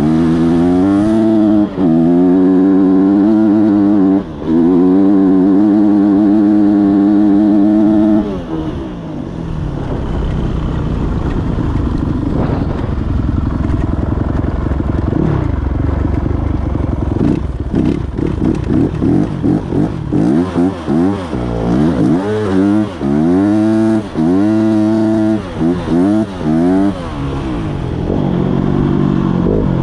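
Yamaha YZ250F single-cylinder four-stroke dirt bike engine revving up and down over and over, its pitch climbing and falling. Through the middle it runs rougher and less even, then the repeated revving returns and it settles to a steadier pitch near the end.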